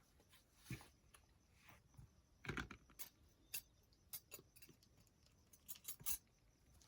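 Faint handling sounds of paper-craft materials: a scatter of light clicks, taps and rustles, with the loudest knock about two and a half seconds in and a quick cluster of clicks near the end.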